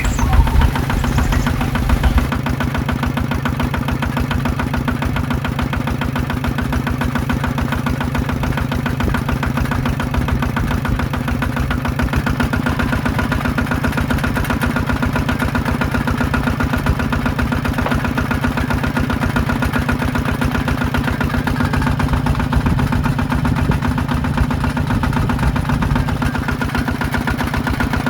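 Small diesel engine of a DIY power tiller running steadily with a fast, even beat, heavier for the first couple of seconds before settling.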